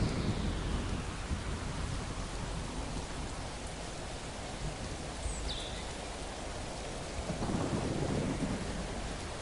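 Steady rain with low rolling thunder that eases off mid-way and builds again near the end. A single short bird chirp sounds about halfway through.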